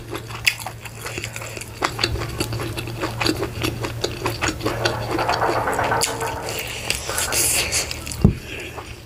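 Close-miked chewing and lip-smacking as a piece of meat is eaten by hand, with a stretch of denser wet chewing about five seconds in and a low thump near the end. A steady low hum runs underneath.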